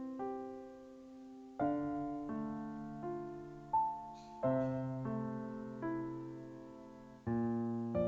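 Background piano music: slow, gentle chords, each struck and left to fade before the next, about one a second.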